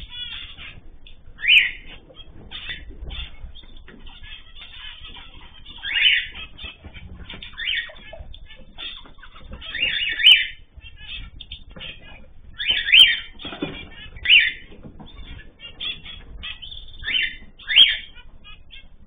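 Mixed cage birds (cockatiels, zebra finches, canaries and goldfinches) chirping and calling without a break, with a louder call every two or three seconds.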